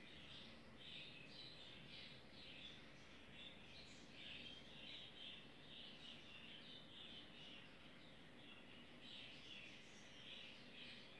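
Near silence, with small birds chirping faintly and continuously in the background.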